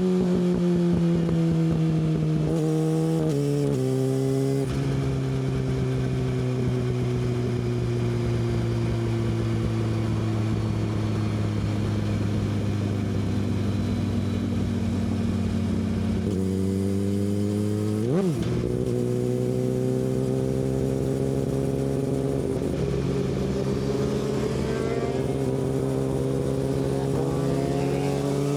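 Yamaha R6 inline-four with an Akrapovic exhaust, heard from on board while riding. The engine note falls as the bike slows, with a couple of gear changes a few seconds in, then holds low and nearly steady for a long stretch; about two thirds through there is a brief sharp rev, after which the note climbs steadily, faster near the end, as the bike accelerates.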